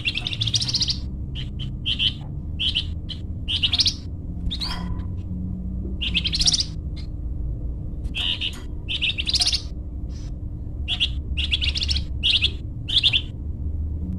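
A songbird known in Indonesia as the flamboyan sings a string of short, rapid trilled phrases in quick succession, high-pitched and repeating every second or so. A steady low hum runs underneath.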